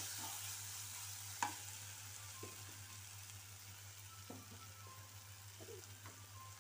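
Onion-tomato masala frying in a nonstick kadai with a faint sizzle that slowly fades, while a wooden spatula stirs it, scraping and knocking against the pan a few times, the clearest knock about a second and a half in.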